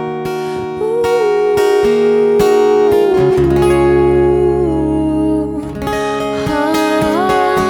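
Live band playing an instrumental passage: strummed acoustic guitar under a held, bending lead melody, with a low bass note coming in about three seconds in.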